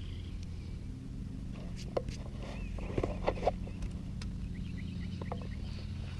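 A steady low hum with faint bird chirps over it and a few sharp clicks between two and three and a half seconds in.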